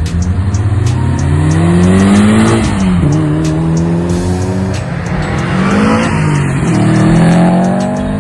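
Mitsubishi Lancer Evolution's turbocharged four-cylinder engine accelerating hard through the gears: the revs climb, drop at a gear change about two and a half seconds in and again near six seconds, then climb once more. Background music with a steady beat runs underneath.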